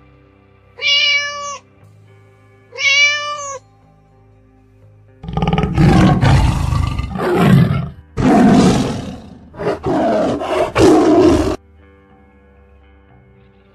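A cat meows twice, short arched calls, then a large animal gives a loud, rough roar in several long bursts over about six seconds, with soft background music underneath.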